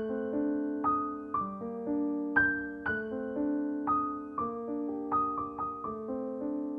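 Solo piano background music: a slow, gentle melody of single struck notes, about two a second, each left to ring and fade.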